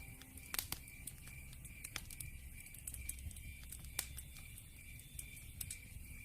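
Log fire crackling, with irregular sharp pops and a low rumble. Under it, an insect, most likely a cricket, chirps at an even, rapid rhythm as a night-time background.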